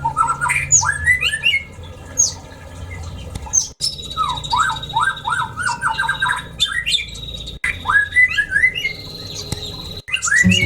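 Aviary birds chirping and squawking: rapid series of short rising calls, broken by sudden brief dropouts near 4, 7.5 and 10 seconds in.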